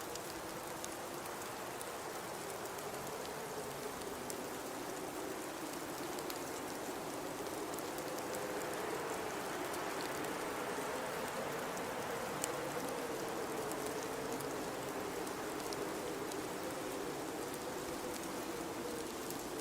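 Blizzard wind blowing steadily, a low whistle wavering up and down in pitch over a constant hiss of wind-driven snow, with scattered faint ticks.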